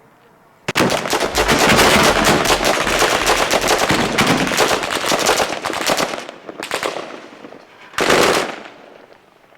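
Automatic gunfire: a sudden long run of rapid shots for about five seconds that thins out, then two short bursts a little later.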